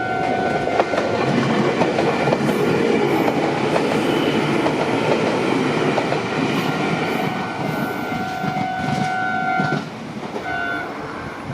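A train passing over a Japanese level crossing, its wheels clattering over the rails, while the crossing's electronic warning bell keeps ringing underneath. The train noise drops off sharply about ten seconds in, leaving the bell clearer near the end.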